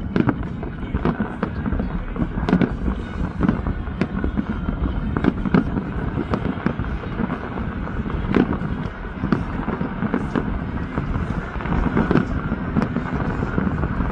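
Fireworks display: many irregularly spaced bangs and crackles over a continuous rumble.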